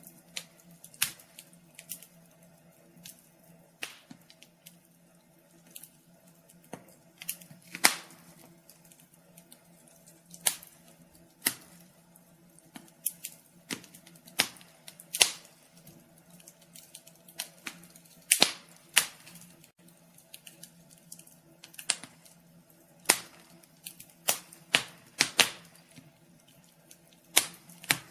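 Fire in a fireplace crackling: irregular sharp pops and snaps, one or two a second and varying in strength, over a faint steady low hum.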